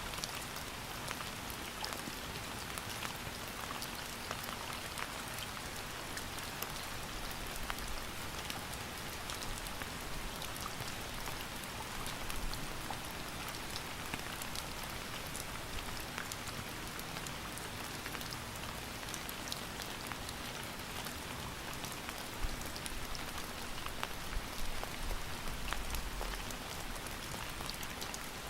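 Steady rain falling, with many individual drops pattering on a surface. A few faint low thumps come near the end.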